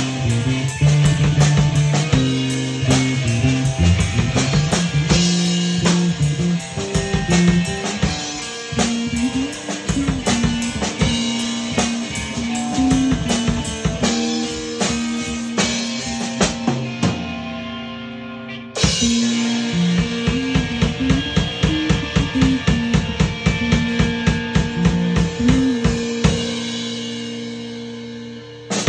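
A rock band playing an instrumental passage: a drum kit keeping a steady beat under electric guitar and bass. The band drops out briefly about two-thirds of the way through, comes back in, and then lets the sound ring down near the end.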